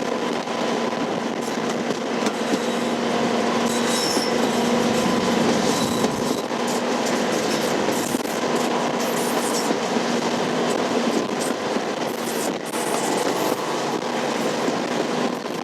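Diesel-hauled train running steadily: an even engine note under continuous rail and wheel noise, with faint high wheel squeals now and then.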